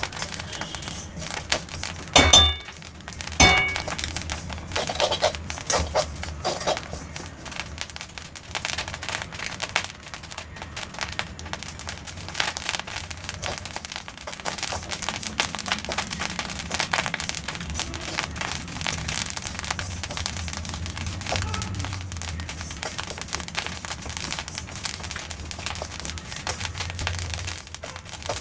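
Black sesame seeds popping and crackling as they dry-roast in a pan, a dense, fast, irregular crackle. The seeds are still popping, so they are not yet fully roasted: the roasting goes on until the crackling dies away by itself. Two louder sharp knocks come a little over two seconds in and again about a second later.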